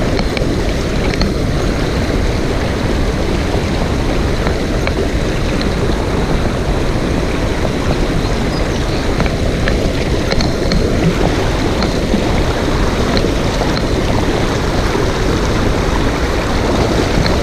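Mountain stream water rushing steadily over rocks, a loud, even, low-pitched rush.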